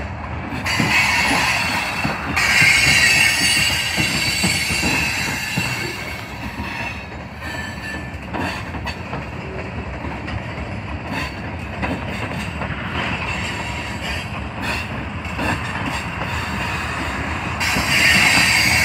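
Train cars rolling slowly past, the wheels clacking over rail joints and squealing against the rails, the squeal strongest about a second in and again near the end.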